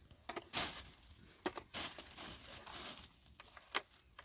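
Crinkling and rustling in irregular short bursts, with a few light clicks between them.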